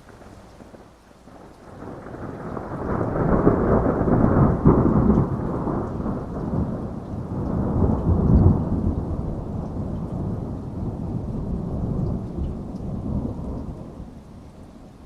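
A long roll of thunder over steady rain. The rumble builds about two seconds in, peaks twice, and dies away near the end.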